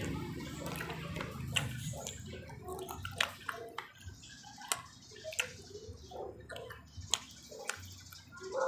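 Close-up wet chewing and mouth smacking of people eating skewered street food, with a few sharp clicks scattered through.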